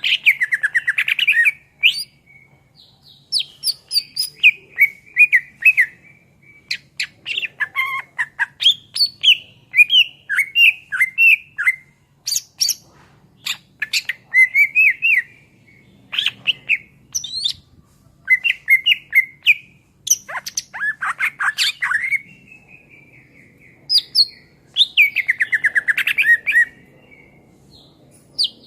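Greater green leafbird (cucak ijo) in full song: a rapid, varied string of loud whistles, trills and chattering notes, delivered in phrases of a second or two with short pauses between them. A faint steady low hum lies underneath.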